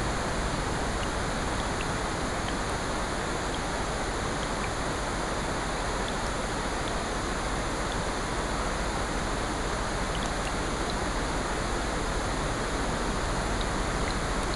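A layered sleep ambience of rain, ocean surf and a fireplace: a steady, even rushing hiss with faint, scattered small ticks through it.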